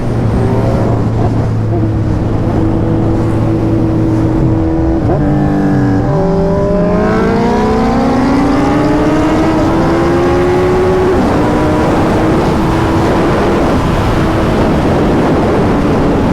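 Motorcycle engine on the move: steady at first, its pitch dips briefly about five seconds in, then rises smoothly for several seconds as it accelerates and levels off, over a constant rush of road noise.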